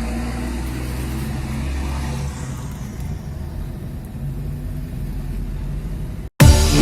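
A motor vehicle's engine running steadily with a low rumble, a little quieter after about two seconds. Near the end it cuts off abruptly and loud electronic music starts.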